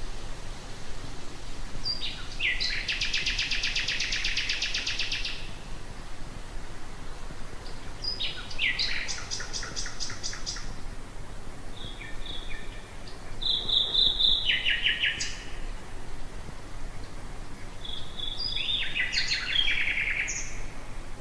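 Common nightingale singing in four separate phrases a few seconds apart, each a rapid series of repeated notes, two of them opening with a few whistled notes. A faint low hum runs underneath.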